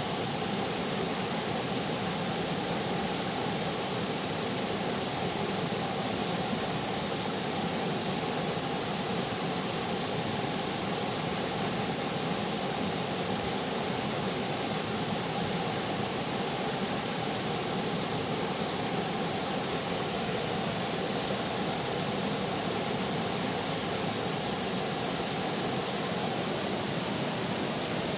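River water flowing, heard as a steady, even rush with no breaks.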